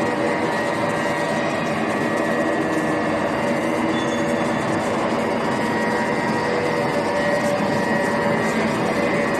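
Heavy-duty three-guideway lathe running: a steady mechanical hum with several steady whining tones.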